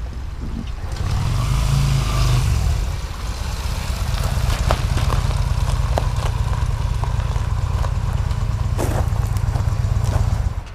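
Motorcycle engine running under way, picking up about a second in and then holding a steady pace, with the sound dropping off abruptly near the end.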